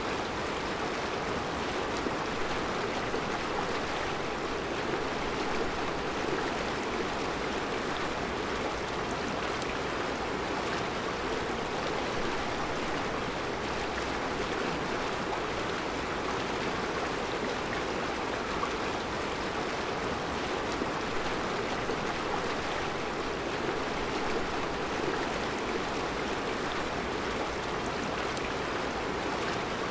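Mountain river flowing over round rocks in a rocky riverbed: a steady rushing of water.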